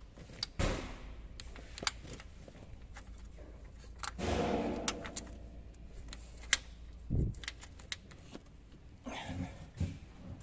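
Metal hand tools and engine parts clicking and clinking in scattered knocks, with a short rattle about four seconds in.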